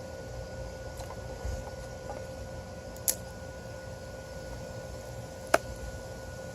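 Steady low background noise with a faint constant hum, broken by two short, sharp clicks or knocks: a light one about three seconds in and a louder one about five and a half seconds in.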